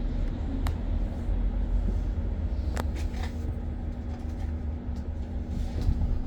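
Inside a moving BYD BD11 battery-electric bus: a steady low road rumble with a constant hum that stops near the end, and a few light clicks and rattles about a second in and around three seconds in.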